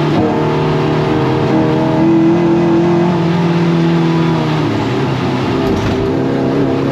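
Toyota MR2 race car engine running hard on track. Its pitch falls just after the start, climbs slowly, falls again about two thirds of the way in, then rises again near the end, as the driver lifts or shifts and accelerates.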